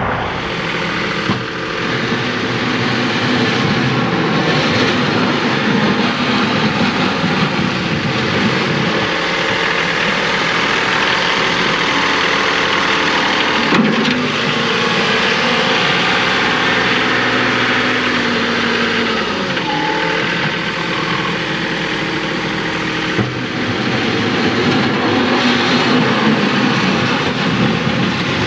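John Deere 2038R compact tractor's three-cylinder diesel engine running under load while pushing snow, its pitch rising and falling as the load changes, with a single clunk about halfway through.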